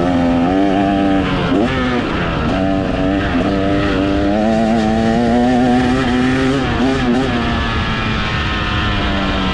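Motocross dirt bike engine revving hard under load, its pitch climbing and dropping again and again as the throttle is worked and gears change.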